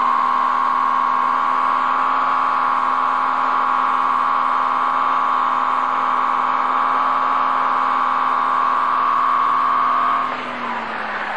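Ford Granada's engine held at high revs, one steady high-pitched note, as its wheels spin on gravel; about ten seconds in the revs drop away and the car pulls off.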